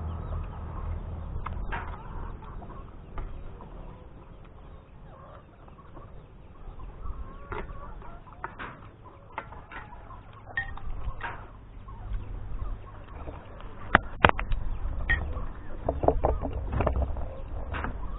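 Short animal calls, clustered near the end, over a low rumble, with scattered sharp clicks and knocks, two of them louder about fourteen seconds in.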